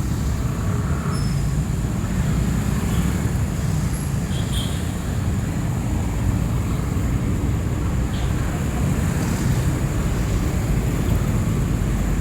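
Steady low rumble of street traffic along a city road.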